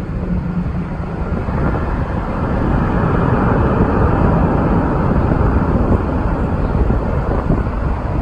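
Airbus A350 airliner's jet engines rushing past on the landing approach, a steady roar that swells a few seconds in, mixed with wind buffeting the microphone.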